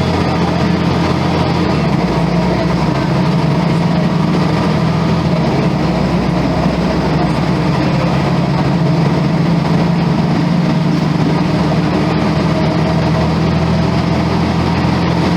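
Volvo B10M bus's mid-mounted straight-six diesel engine running steadily at an even pitch.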